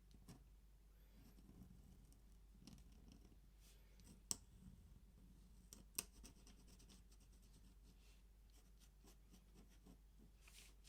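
Faint scratching of a pen on paper during ink drawing, with scattered light strokes and two sharp ticks, about four and six seconds in.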